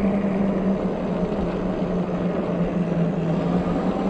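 Wind rushing over the microphone of a moving bike, with a steady low hum running underneath.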